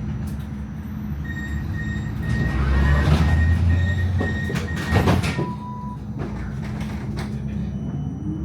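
Melbourne tram running along its route: a steady low rumble of wheels on rail that swells for a second or two in the middle, with a thin high tone held for a few seconds and a sharp knock about five seconds in.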